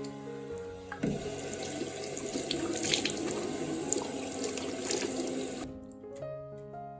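Water running from a tap into a sink. It starts about a second in and cuts off abruptly near the end, over soft background piano music.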